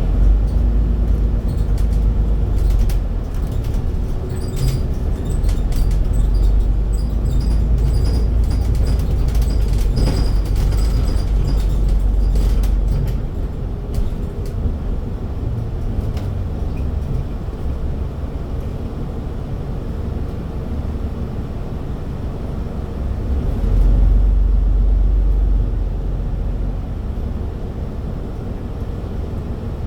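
Scania Citywide city bus's engine and drivetrain running under way: a deep rumble, louder through roughly the first dozen seconds, then easing, with a second brief swell about two-thirds of the way in. Light rattles can be heard over it.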